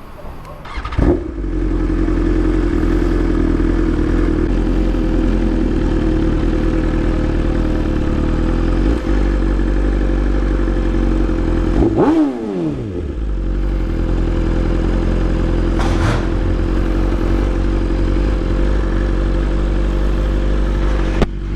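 BMW S1000RR's inline-four engine starting about a second in, then running steadily at low revs, with a brief dip and rise in pitch about halfway through.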